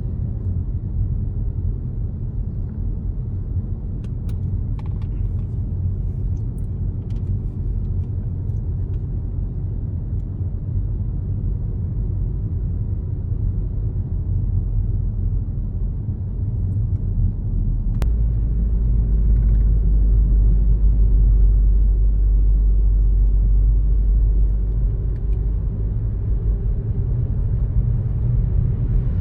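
A car driving, with a steady low rumble of road and engine noise. A sharp click comes about two-thirds of the way through, and the rumble then grows deeper and louder for several seconds before easing back.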